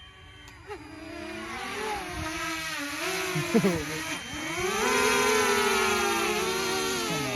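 A motor engine revving and accelerating: its pitch climbs, dips about four seconds in, climbs again, and falls away near the end.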